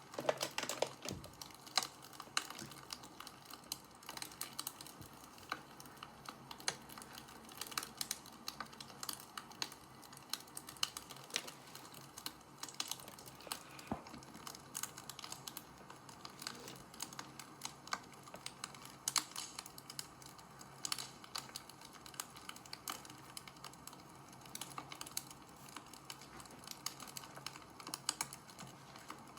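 Wood fire crackling: a steady hiss under a continuous run of irregular sharp clicks and pops.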